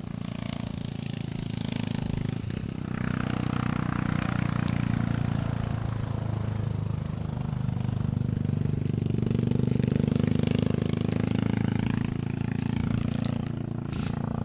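An engine running steadily, its low hum swelling louder and easing off twice.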